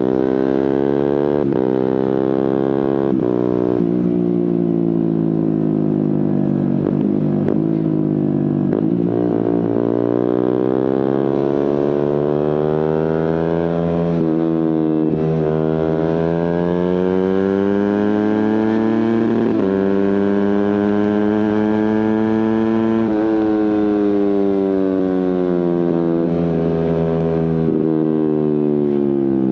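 Suzuki GSX-R150's single-cylinder engine through an aftermarket Prospeed exhaust, under way. The revs fall over the first several seconds with a few short breaks, then climb steadily for about fourteen seconds with brief dips at the quickshifted gear changes, then fall away again near the end.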